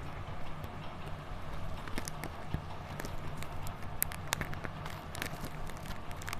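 Handling noise as tape is wrapped around a small microphone's sponge foam windscreen: scattered light clicks and rustles over a steady low hum.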